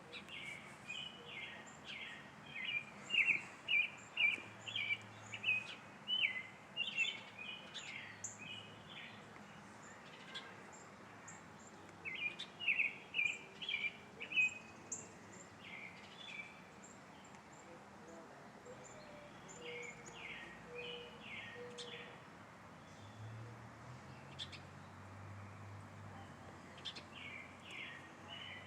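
Songbird singing in runs of quick, high notes, loudest in the first half, with pauses of a few seconds between runs.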